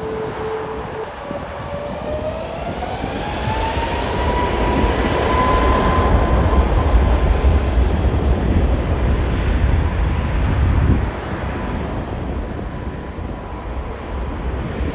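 Airliner engines running: a whine rises in pitch over the first few seconds and then holds steady, over a deep rumble that builds and then drops off abruptly about eleven seconds in.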